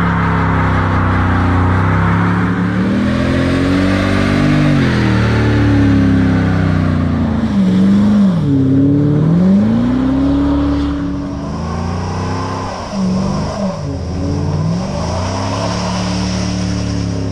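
Pontiac G8 GT's L76 6.0-litre V8 with a GPI SS1 camshaft and a muffler delete, running under changing throttle: the exhaust note drops in pitch and climbs back up several times. A steady high whine joins about eleven seconds in.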